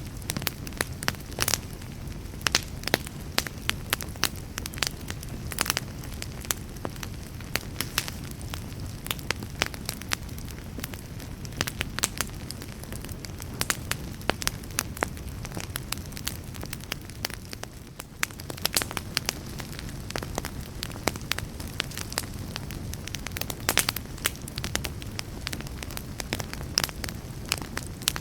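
Fireplace fire burning steadily, with irregular sharp crackles and pops over a low rumble. The level dips briefly about two-thirds of the way in.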